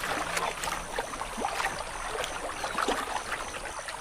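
Wetland water ambience: light splashing and trickling water with scattered small clicks, and a faint high chirp repeating about three times a second.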